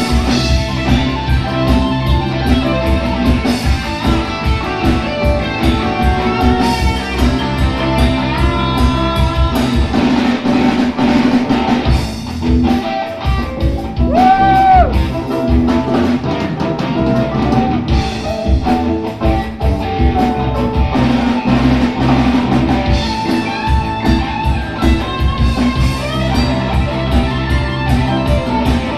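Live rock band playing an instrumental passage: electric guitars over bass and drums with a steady beat. About halfway through, the drums thin out and a single held high note bends up and back down before the full band comes back in.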